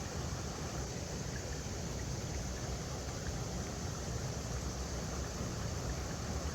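River water flowing steadily over rocks, an even rushing noise with a strong low rumble.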